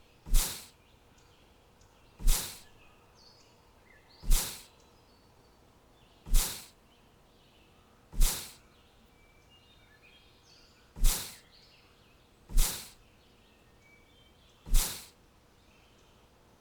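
A short, loud burst of noise that dies away within half a second, repeating eight times about every two seconds, like a game sound effect. Faint bird chirps sound between the bursts.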